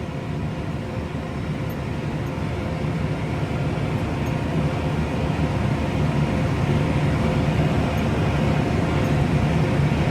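Case IH Maxxum 150 tractor running steadily under load while pulling a disc mower-conditioner through hay, a steady engine drone that grows gradually louder.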